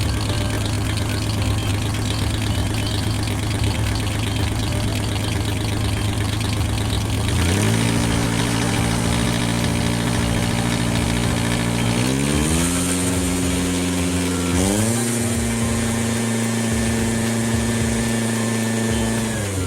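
Vehicle engine sound. A rough rumble at first, then a steady engine note comes in about seven seconds in. It climbs in two steps, as if going up through the gears, and drops back near the end.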